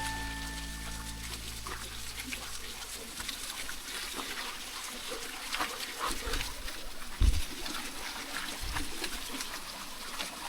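A dog panting and snuffling while walking, with small crackling steps on a twig- and leaf-strewn trail and a single thump about seven seconds in.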